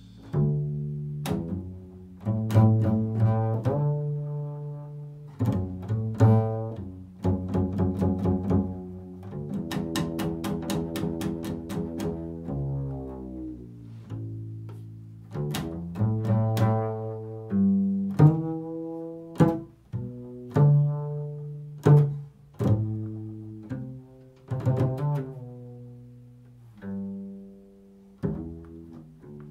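Improvised solo music on a low-pitched string instrument: mostly plucked notes that start sharply and die away, with a quick run of rapidly repeated notes around the middle and some longer held notes.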